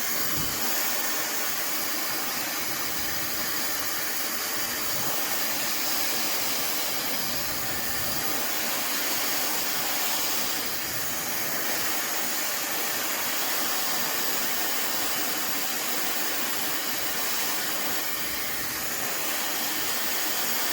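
Fentgo high-speed brushless hair dryer running steadily while drying hair: an even, airy rush of blown air.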